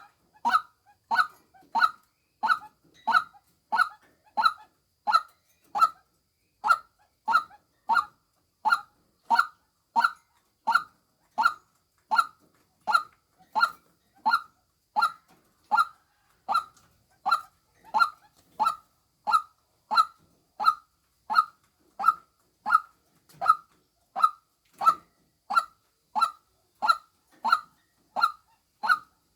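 Female white-breasted waterhen call of the kind used as a hunting lure: one short, hoarse note repeated steadily, about three every two seconds.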